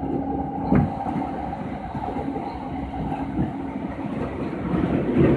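Rinkai Line 70-000 series electric train running on the rails: a steady rumble with a faint steady hum, a sharp wheel knock about a second in, and the rumble swelling with another knock near the end.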